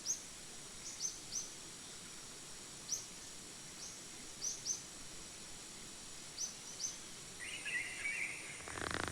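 Rainforest ambience: short high chirps repeating at irregular intervals over a steady, thin, high insect drone, with a brief scratchy call about eight seconds in.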